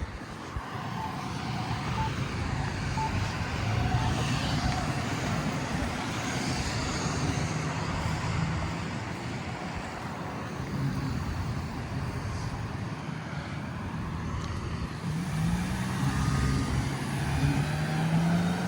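Road traffic going by, a continuous vehicle noise that swells and eases. In the last few seconds an engine's steady hum comes in close.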